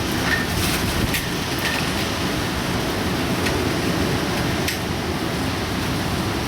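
Typhoon rain and wind: a steady, loud rushing noise with scattered sharp ticks of drops striking.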